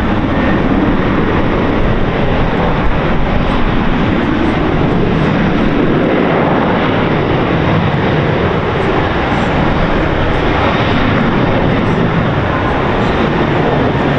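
Passenger airliner's jet engines, a loud, steady rushing noise that holds throughout.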